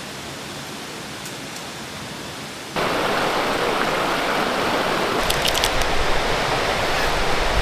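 Forest stream flowing and splashing in a steady rush, which turns abruptly louder and fuller about three seconds in. A few faint clicks come through near the end.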